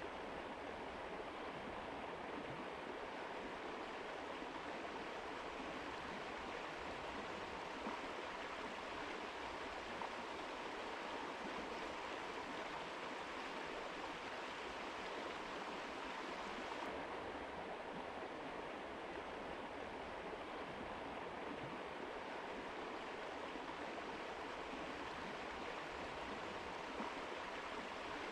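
Mountain river water rushing in a steady, even noise; the highest hiss eases a little about two-thirds of the way through.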